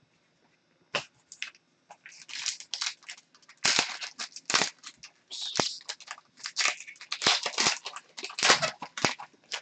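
Trading cards being handled close to the microphone: irregular scraping and crinkling as cards and their packaging slide and are flipped, starting about a second in and coming thick and fast.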